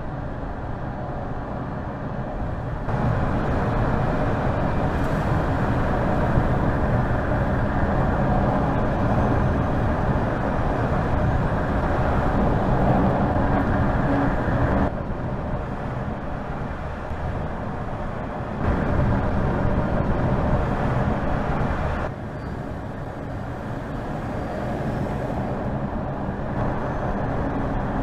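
A car driving by: steady road and engine noise that jumps louder or quieter abruptly several times, as one shot cuts to the next.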